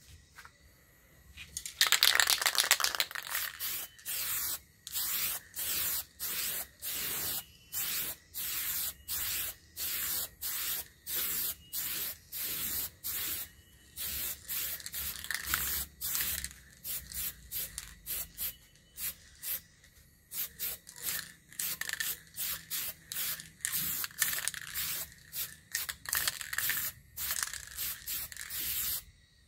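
Steel blade stroked by hand against an abrasive: one long scrape about two seconds in, then a steady rhythm of short scraping strokes, about one and a half to two a second.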